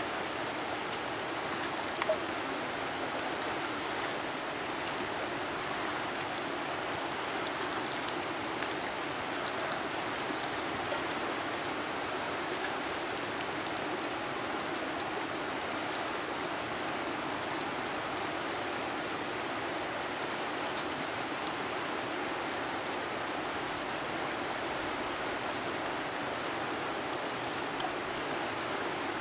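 Swift mountain river rushing steadily past the bank, with a few faint clicks.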